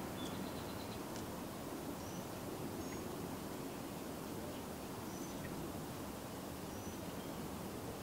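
Steady outdoor background noise with faint, scattered bird chirps, including a quick run of short notes in the first second.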